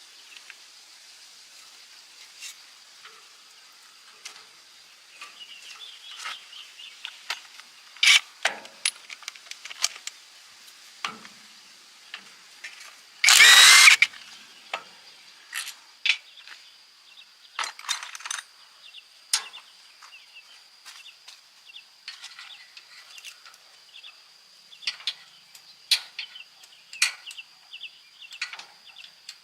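Metal tools and engine parts clicking and knocking at irregular intervals during hand work on a small engine. There is one brief, loud hiss about thirteen seconds in.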